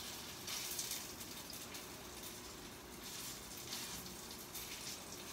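Meatballs frying in hot oil in a pan: a steady sizzling hiss with faint crackles.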